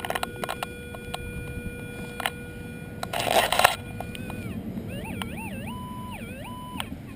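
Minelab E-trac metal detector sounding a steady tone, broken by a short burst of scraping in the soil about three seconds in. Then the detector's tone swoops up and down in pitch several times as the coil is passed over a target in the hole, pinpointing coins.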